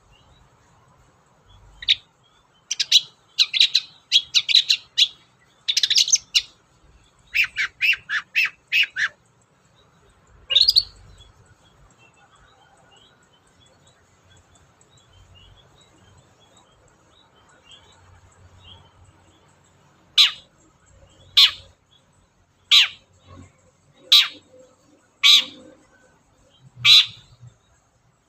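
Long-tailed shrike (cendet) calling. Clusters of quick, sharp notes come in the first nine seconds, then a pause of several seconds. Near the end come six single calls, each about a second and a bit apart.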